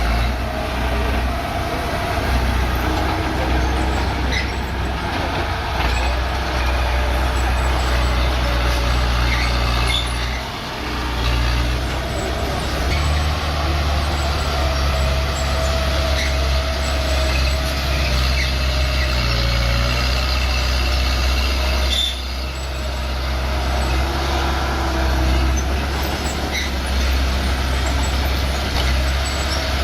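Bulldozer's diesel engine running steadily under load with a deep drone, its note dipping briefly twice, with intermittent high squeaks on top.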